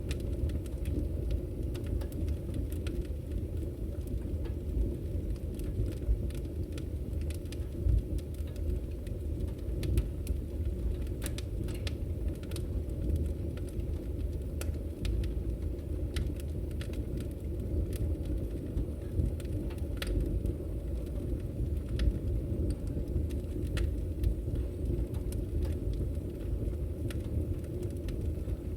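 Wood fire burning in a fireplace, crackling: a steady low rumble of the flames with scattered sharp pops and snaps, a few of them louder than the rest.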